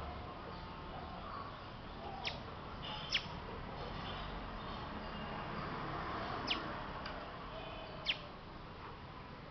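Short, sharp bird chirps, each a quick falling sweep, five of them spread over the stretch, with faint high twittering in between, over a steady background hiss.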